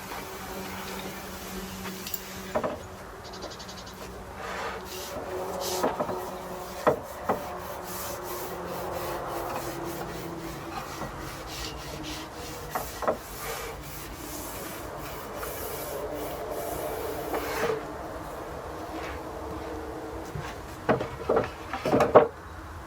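Paintbrush spreading oil over larch planks, the bristles rubbing and scratching along the wood grain in strokes. A few sharp knocks are scattered through it, with the loudest cluster near the end.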